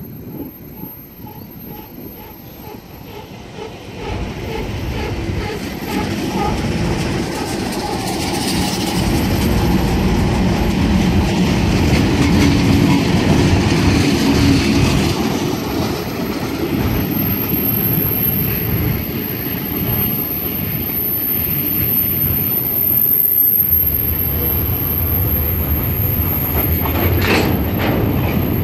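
Train passing close by: steady rumble and wheel noise on the rails that grows loud about four seconds in and keeps up.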